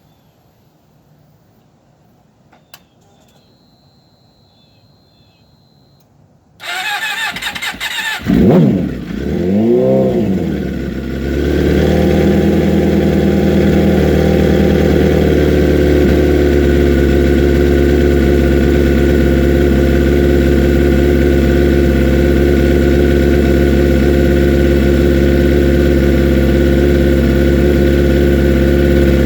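2006 Suzuki GSX-R 750 inline-four on a Two Brothers exhaust, cold-started: the starter cranks about a third of the way in, the engine catches and is blipped twice with the throttle, then settles into a steady idle. This is the bike's cold-start trouble, which the owner manages by giving it gas to keep it from stalling.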